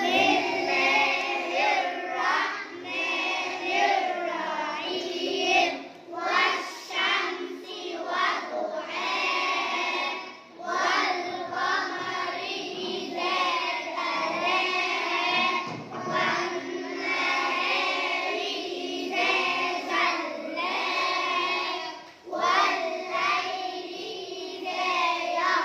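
A group of children chanting together in unison, a melodic recitation carried on without pause.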